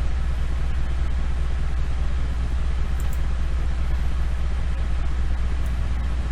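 Steady low background hum with a hiss over it, with a couple of faint clicks about three seconds in and again near the end.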